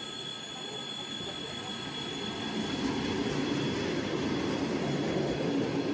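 Electric suburban train passing at speed: a steady rumble and rattle of wheels and carriages on the rails, growing louder about halfway through, with a thin high steady tone above it that fades out.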